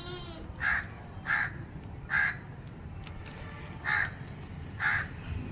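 A crow cawing five times in short, harsh calls at irregular intervals, over a low steady background hum.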